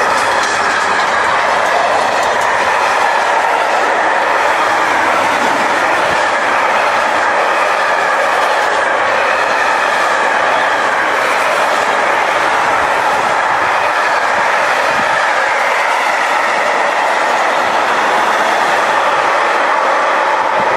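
A train rolling past close by: a steady, loud rush of steel wheels on the rails with a ringing tone in it, holding for the whole stretch without a break.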